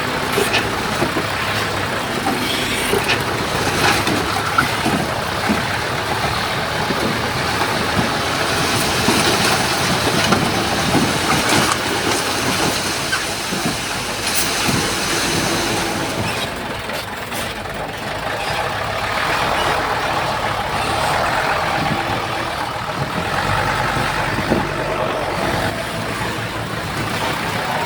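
Heavy diesel engines of a bulldozer and dump trucks running steadily, with frequent short clanks and knocks.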